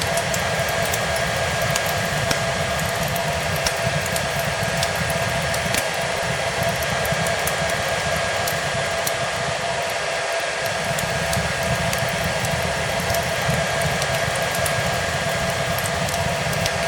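Hair dryer running steadily, a constant rushing blow with a steady motor whine, mixed with the light scattered pops and crackles of a wood fire.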